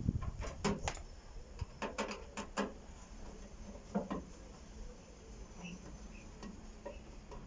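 Sharp clicks and knocks of a screwdriver and parts against a microwave's metal casing as it is dismantled by hand: a quick cluster in the first few seconds, one more about four seconds in, then only faint handling.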